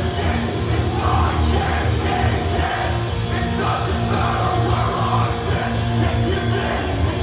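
Metalcore band playing live at full volume: dense heavy rock music with a strong, steady low end.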